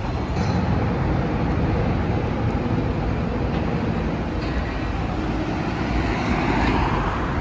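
Steady rumble of a vehicle in motion, with a whooshing swell building near the end.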